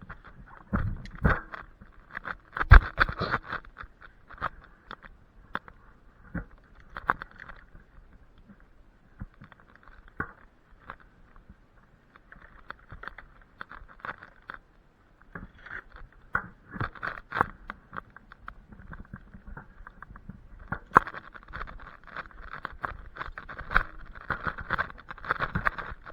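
Irregular rustling, scraping and knocking of cut tree branches being worked and handled, with a sharp knock about three seconds in and busier stretches later on.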